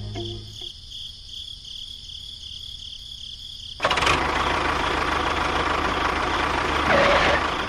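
A quiet steady hum, then about four seconds in a loud engine-like running noise starts suddenly and holds for about three and a half seconds before dropping away near the end.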